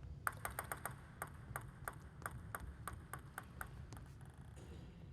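Table tennis ball clicking: a run of about a dozen sharp, ringing ticks over some three seconds, quick at first and then about three a second.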